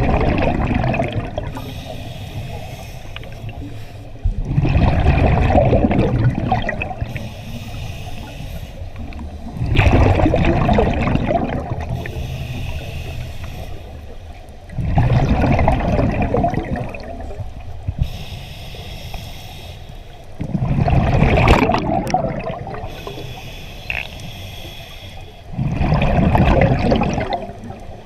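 A scuba diver breathing through a regulator underwater. Loud rushes of exhaled bubbles come about every five seconds and last about two seconds each, with a quieter hiss between them.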